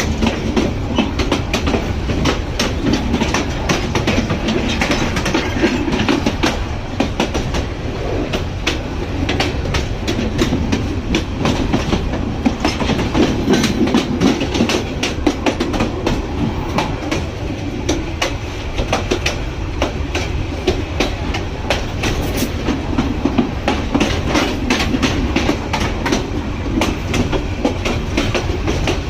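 A moving train: a steady rumble of wheels on the rails with dense, rapid clicking and clatter.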